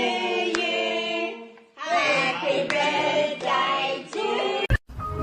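Voices singing a tune, with a few sharp hand claps, cut off abruptly near the end.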